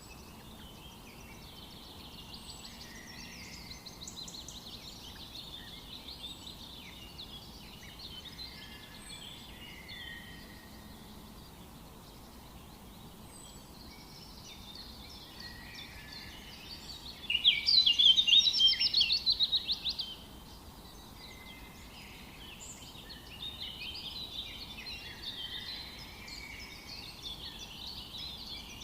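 Several songbirds singing, their overlapping songs and chirps running on over a faint steady background. About two-thirds of the way through, one bird sings much louder and close by, a rapid run of notes lasting about three seconds.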